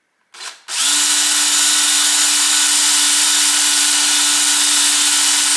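Power drill run briefly, then held at a steady speed, drilling out the hex-nut recess in a chainsaw's magnesium chain-adjuster cover. The pitch holds steady, with no change under load.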